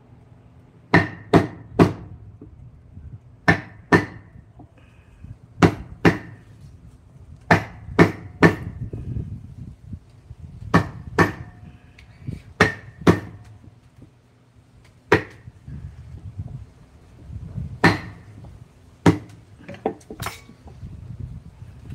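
Woodcarving chisel being struck to cut into wood. The sharp strikes come in pairs or threes, roughly every two seconds, and each rings briefly.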